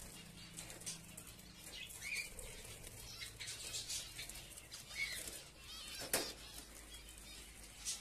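Cage birds in an aviary, with many short high chirps and fluttering wings. There is a sharp click about six seconds in.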